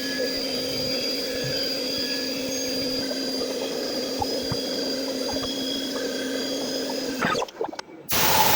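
CNC mill running steadily while it machines a billet MGB chest cover held in soft jaws: a steady hum with a high whine over it. It cuts off suddenly about seven seconds in, and a loud hiss starts near the end.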